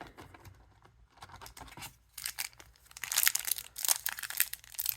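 A trading-card booster pack wrapper being torn and crinkled open, in a run of crackly tearing that starts about two seconds in, after a few faint handling ticks.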